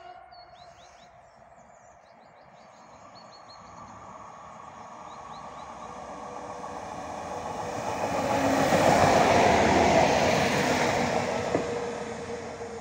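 Regio SA139 Pesa Link diesel multiple unit approaching and passing at speed: its running noise grows to a peak about nine seconds in, then falls away as it goes by. Small birds chirp faintly near the start.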